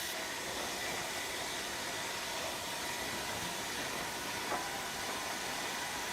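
Steady machinery noise of a sawmill processing line running, an even hiss with a faint whine, and a single light tick about four and a half seconds in.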